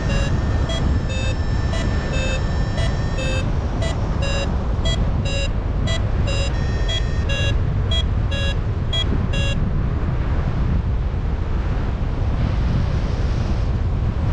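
Paragliding variometer beeping about twice a second, the climb tone that signals rising air, over steady wind rushing across the microphone. The beeps stop about nine and a half seconds in, leaving only the wind.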